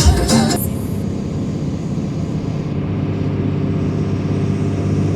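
Music cuts off about half a second in, leaving a truck's engine running at a steady, even drone.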